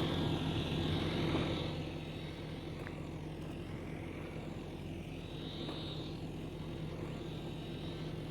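A high, hissing insect chorus that swells and fades, over a steady, louder low mechanical hum.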